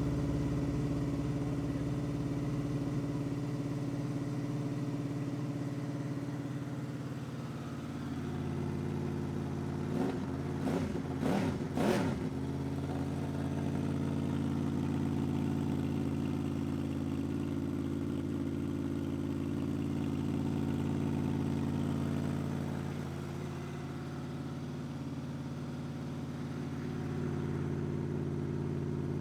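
2005 Honda VFR800's V4 engine, with a gutted exhaust, idling as it warms up from a cold start. About ten seconds in, three quick throttle blips rise and fall, and then it settles back to a steady idle.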